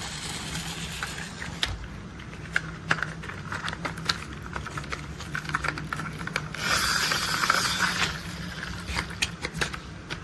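Plastic toy construction vehicles being handled, giving irregular sharp clicks and clacks. About seven seconds in there is a denser noisy burst lasting about a second and a half. A steady low hum runs underneath.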